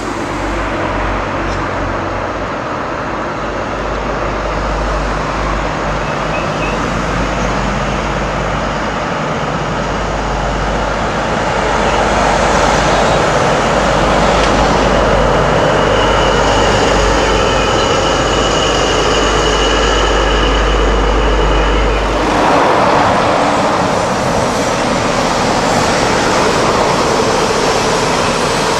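InterCity 125 High Speed Train passing at speed: diesel power cars and coaches running on the rails, getting louder about halfway through with a steady high whine, and the low rumble dropping away suddenly about three-quarters of the way in.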